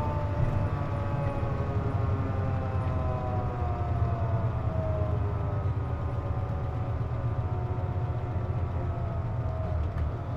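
Inside a Hino KC-JP250NTN city bus under way: steady diesel engine rumble with a whine in several tones that slowly falls in pitch. The air conditioning is running, and the bus is known for an abnormal noise (異音) with it on.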